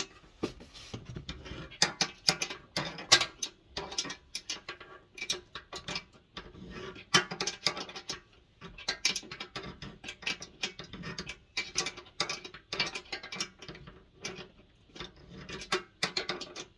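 Ratchet wrench clicking in short irregular bursts, with small metallic taps and knocks, as bolts on a diesel heater are worked loose.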